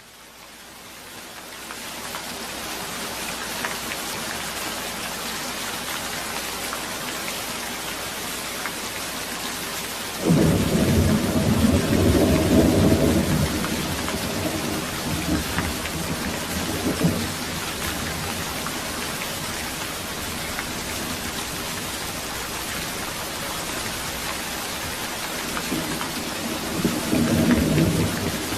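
Steady heavy rain, swelling up over the first couple of seconds, with thunder: a loud rumble breaks in suddenly about ten seconds in and rolls on for some seven seconds, and a shorter, softer roll comes near the end.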